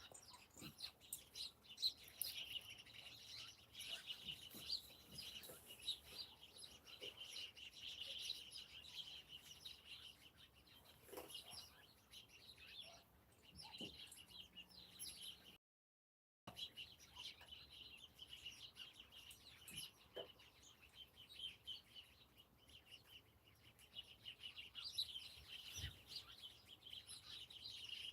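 Faint chirping and twittering of small birds, many short calls overlapping without a break, dropping out for under a second about halfway through.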